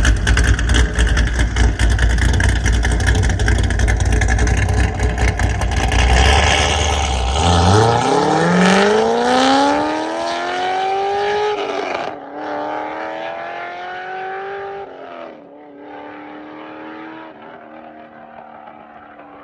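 Cammed C6 Corvette Z06's LS7 V8 with long-tube headers and a Corsa Sport exhaust. It rumbles loudly close by, then about eight seconds in it pulls away hard. The exhaust note climbs through the gears, with upshifts about twelve and fifteen seconds in, and fades as the car drives off.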